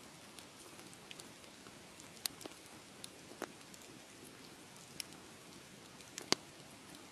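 Wood fire crackling in a fireplace: a steady soft hiss with scattered sharp pops, about five in all, the loudest near the end.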